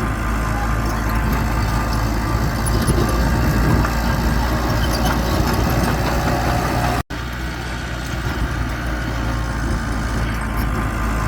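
Heavy earthmoving machine's diesel engine running steadily. The sound drops out for an instant about seven seconds in, then the engine noise carries on.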